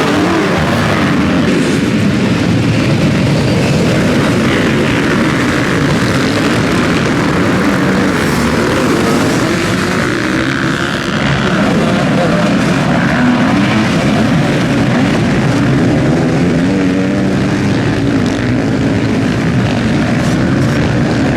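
Several motocross motorcycle engines racing, their revs rising and falling as the riders open and close the throttle through the track, the engine notes overlapping continuously.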